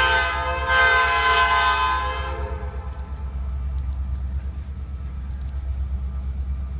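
Diesel locomotive sounding its horn in two blasts, a short one then a longer one of about a second and a half, over the steady low rumble of the slow-approaching train.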